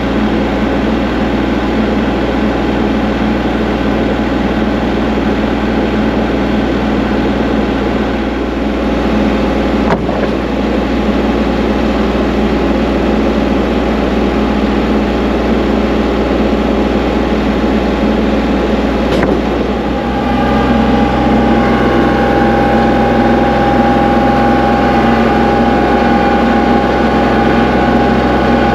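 An engine running steadily. About two-thirds of the way through, its tone changes and it gets slightly louder.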